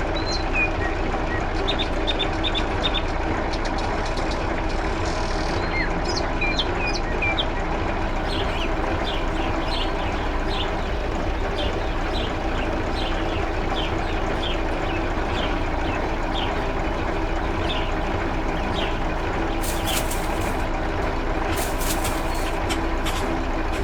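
Tractor engine running steadily, with birds chirping throughout and a few short bursts of noise near the end.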